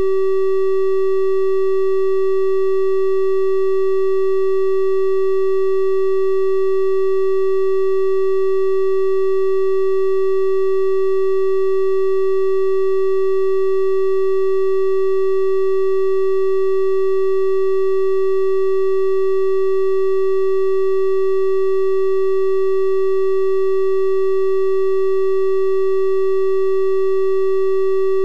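Steady electronic 384 Hz triangle-wave test tone, one unchanging pitch with faint higher overtones.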